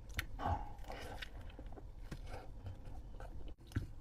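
Faint mouth sounds of a man eating liangpi cold noodles: chewing and swallowing, with scattered small clicks.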